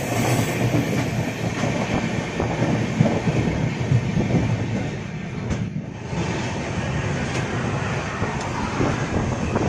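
Moving passenger train heard from an open coach door: its wheels run steadily on the rails with a continuous rumble and clatter. The sound dips briefly a little over halfway through.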